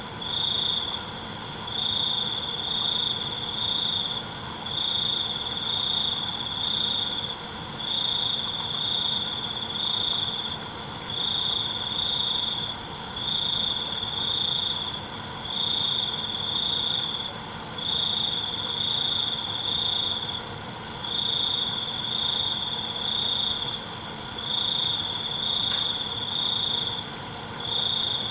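Crickets calling: a loud high-pitched trill that comes in repeated bursts of a second or two with short gaps, over a steady, higher-pitched chorus of other insects.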